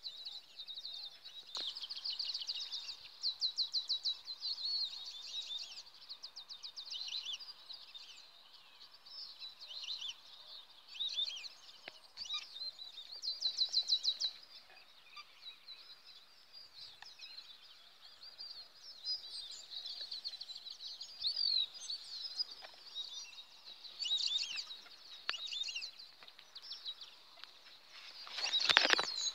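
Songbirds singing in the scrub: several birds overlapping, with high, fast trills and short chirps repeated throughout. A louder, fuller call comes near the end.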